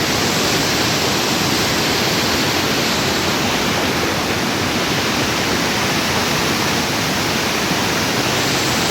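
Turno Fakcha waterfall on the Oyacachi River in full flow: a loud, steady rush of falling water.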